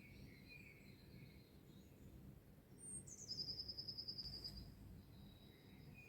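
Songbirds singing faintly. About three seconds in, one bird gives a song that starts high, steps down and ends in a fast, even trill. Softer chirps from other birds are heard around it.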